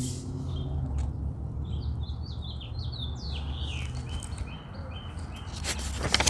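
A small songbird sings a run of short, quick chirping notes starting about two seconds in, over a steady low background rumble. Near the end there is a short rustle of a book page being turned.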